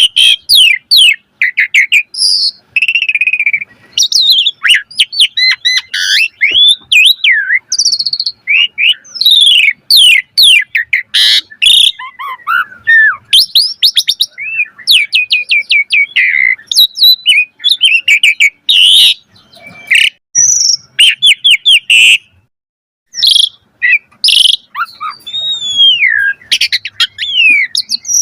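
Javan pied starling (jalak suren) singing a long, varied song: loud whistled glides mixed with fast chattering runs of rapid notes, with one short pause a little past the middle.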